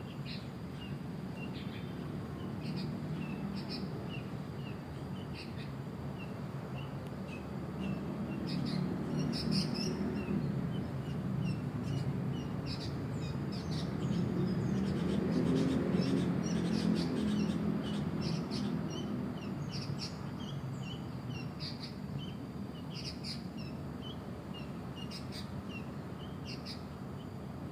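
Sooty-headed bulbuls calling: a steady run of short repeated chirps with sharper, higher notes now and then, over a low rumble that swells about midway.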